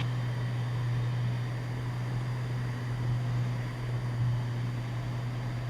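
Cessna 206 Stationair's engine and propeller droning steadily in the cabin on approach: a steady low hum with a faint hiss over it.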